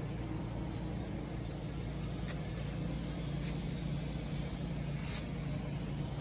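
Steady low mechanical hum with an even hiss over it, like a fan or ventilation unit running, and a few faint ticks.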